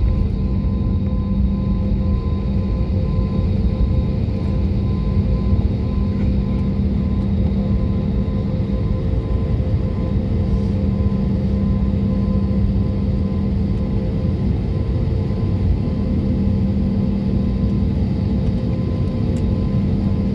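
Jet airliner cabin noise before takeoff: a steady low rumble with several steady hums that hold level throughout.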